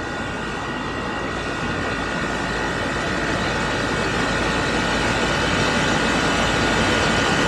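Split-system air conditioner running steadily, compressor and condenser fan, with a faint high steady whine; it grows gradually louder. The charge is being trimmed, refrigerant taken out to raise the superheat toward target.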